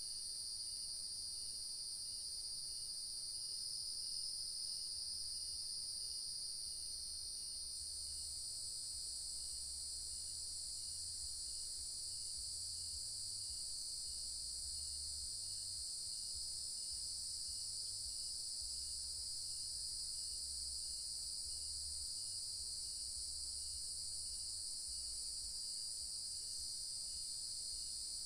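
Crickets and other night insects trilling steadily in several overlapping high-pitched layers, with a faint chirp repeating evenly beneath them.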